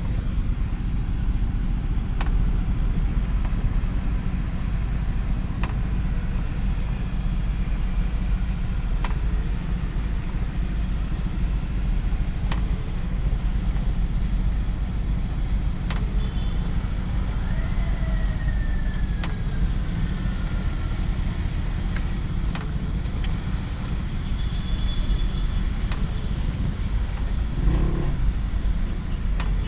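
A motor vehicle running with a steady low rumble, with scattered faint clicks and a brief falling tone about eighteen seconds in.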